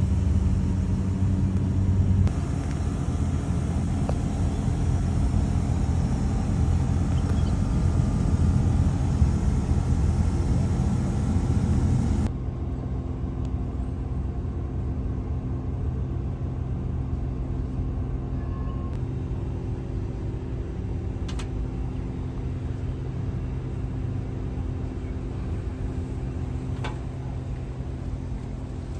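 Steady low mechanical hum of running air-conditioning plant, with several held low tones. It drops a little in level about twelve seconds in.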